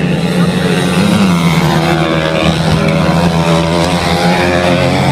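Motocross motorcycle engines running loudly, a steady drone with the pitch wavering up and down.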